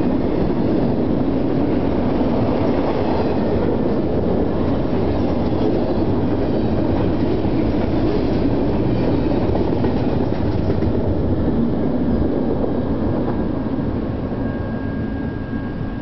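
Double-stack intermodal well cars of a fast freight train rolling past, their steel wheels rumbling and clattering on the rails. The sound fades as the last cars go by near the end, and a faint thin ringing tone is heard at that point.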